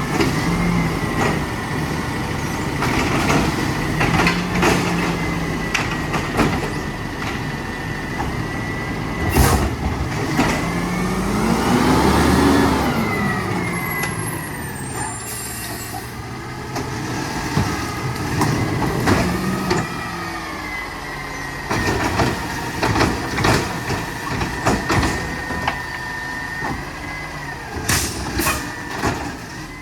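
Mack LR garbage truck with a Labrie Automizer side loader working: its engine revs up and back down about twelve seconds in as the hydraulics pack the load, over a steady high whine, with several sharp knocks and clunks scattered through, the loudest about nine seconds in and again near the end.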